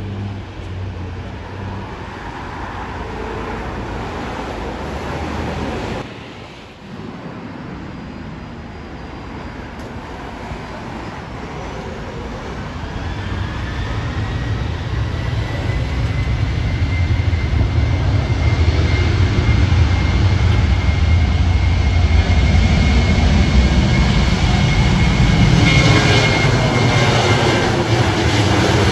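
Airliner engines building to a loud, low rumble with a steady high whine as the aircraft draws close; the sound is loudest in the last ten seconds.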